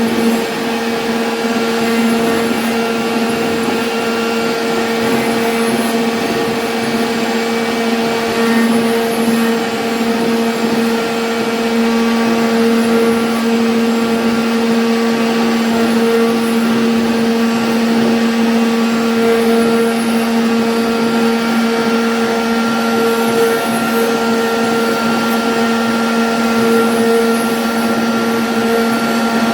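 CNC router spindle cutting a lattice pattern in MDF: a steady whine with constant cutting noise.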